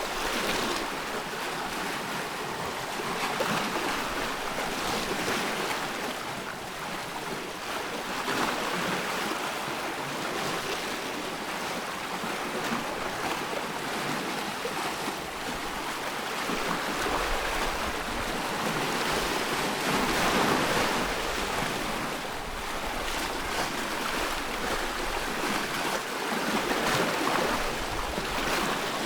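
Ocean waves washing in and breaking, a steady rushing surf that swells and eases every few seconds.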